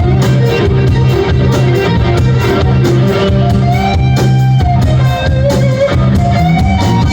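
Rock band playing live, guitar over bass and a steady drum beat, recorded loud and rough on a mobile phone.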